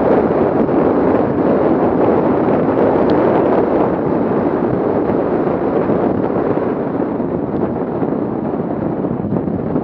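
Off-road vehicle engine running hard, a loud, steady roar that eases slightly towards the end, with wind buffeting the microphone.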